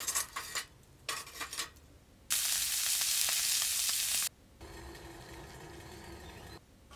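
A fire burning in a small can stove, crackling and sizzling in a few separate snippets. The loudest is a dense, hissing stretch in the middle that starts and stops abruptly. A quieter hiss with a faint steady hum follows it.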